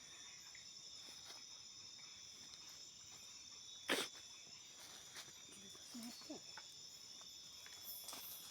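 A steady chorus of insects, crickets among them, holding several continuous high-pitched tones. A single sharp click or knock sounds about four seconds in.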